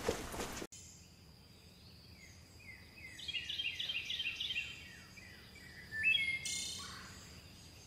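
Quiet background ambience with a songbird singing. A quick series of about seven short, downward-sliding chirps starts about three seconds in, and a second short phrase follows near the end.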